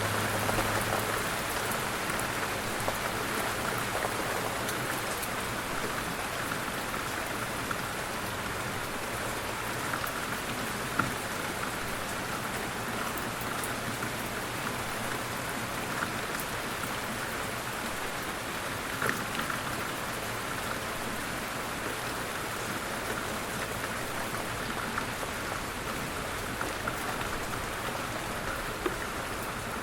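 Light rain falling steadily, with individual drops pattering on a surface and an occasional louder drop.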